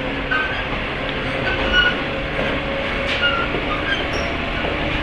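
Running sound inside a 103-series electric motor car (MoHa 102) with MT55 traction motors: steady wheel-and-track rumble with a few light rail-joint knocks and short, high wheel squeals.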